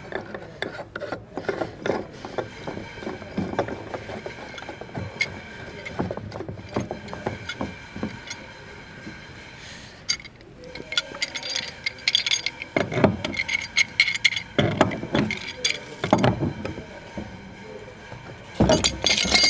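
Repeated small clicks, knocks and clinks of threaded pipe fittings being worked by hand to connect a water pump to the plumbing.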